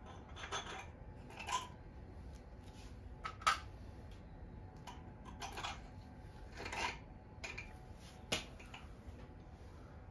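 Faint, scattered clinks and scrapes of small metal parts and hand tools being handled, about eight in all, the sharpest about three and a half seconds in.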